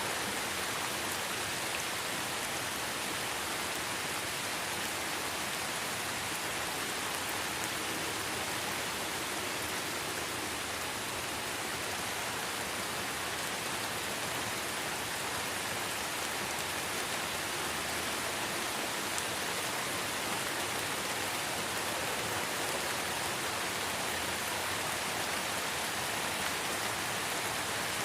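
Steady light rain falling in a forest: an even hiss of many small drops.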